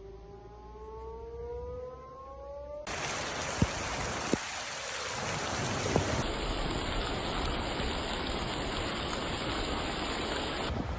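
A siren winding up, its pitch rising steadily, stops abruptly about three seconds in. Steady heavy rain follows, with a few sharp knocks near the middle.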